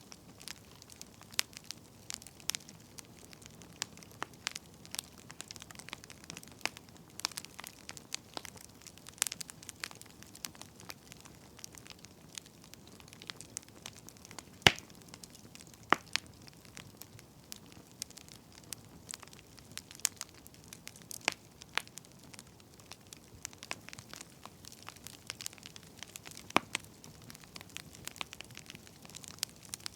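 Wood fire crackling: irregular sharp pops and snaps over a soft steady hiss, the loudest pop about halfway through.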